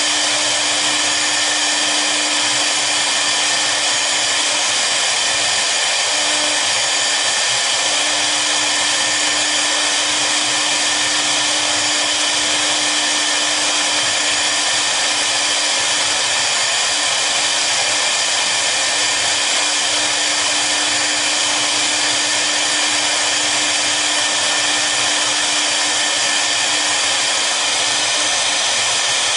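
Two high-speed spindles of a double-head CNC router running steadily through a cutting job: an even, loud whine with a hiss over a low steady hum.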